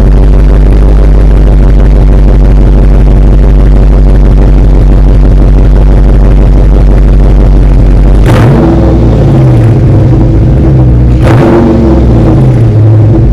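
Dodge Charger Scat Pack's 6.4-litre HEMI V8 cold-starting through the stock exhaust. A steady low drone gives way, about eight seconds in, to a sudden loud burst, then a rough, uneven rumble, with a second burst about three seconds later.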